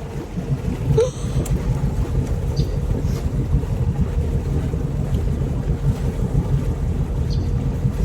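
Vehicle driving slowly through floodwater about up to the top of its tires: a steady low engine rumble with water washing around the wheels.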